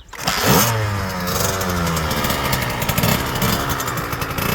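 Husqvarna TC65 two-stroke dirt bike engine comes in suddenly about a quarter second in with a quick rev. It then runs on, its pitch wavering up and down under uneven throttle.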